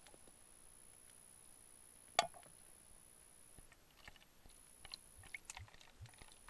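Quiet, with one sharp click about two seconds in, then scattered faint clicks and small handling noises.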